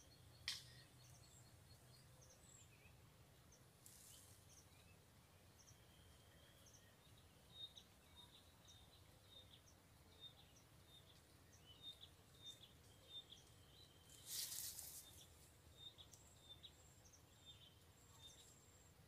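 Near silence: quiet riverside ambience with scattered short, high chirps of small birds, and a brief hiss about fourteen seconds in.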